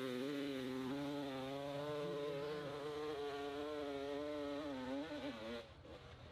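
Dirt motorcycle engine buzzing at high revs on a hill climb, its pitch wavering slightly as the throttle is worked. It cuts off about five and a half seconds in.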